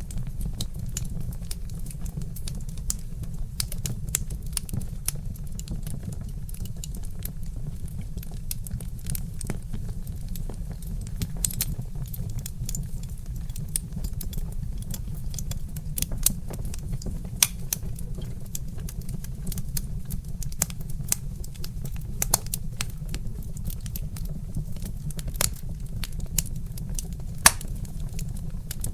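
Burning logs in a fireplace crackling, with frequent sharp pops of varying loudness, the strongest near the end. Underneath runs a soft breeze as a steady low rumble.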